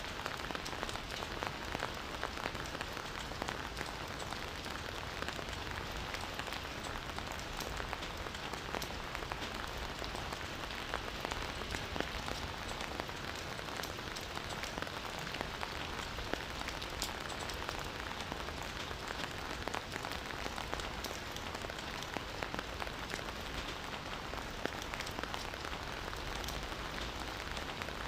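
Steady rain falling in a forest, a dense even hiss with many individual drops ticking on surfaces.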